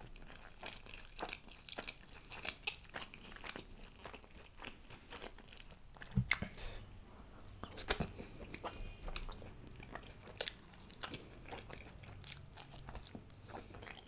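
Close-miked chewing and biting of cheese naan and spicy mutton: a steady run of small mouth clicks and crunches, loudest about six and eight seconds in.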